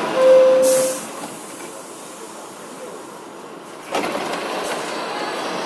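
Inside an R62A subway car on the 7 line: the lower, second note of the door chime sounds with a loud rush of air as the doors close. The car then goes quieter until, about four seconds in, the train noise comes back abruptly.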